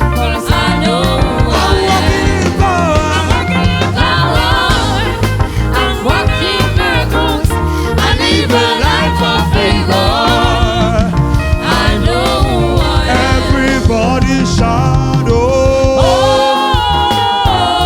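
Gospel worship music: singing with a choir over a live band with bass and drums, with a steady beat.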